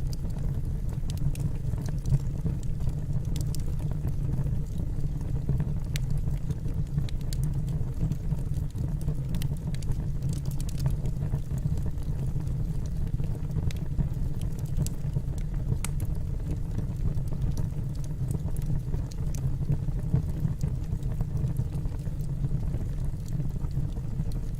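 Wood fire burning in a fireplace: a steady low rumble from the flames with irregular sharp crackles and pops from the burning logs.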